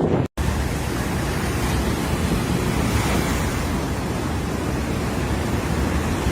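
Steady rushing noise of hurricane wind and surf, broken by a short silent gap just after the start.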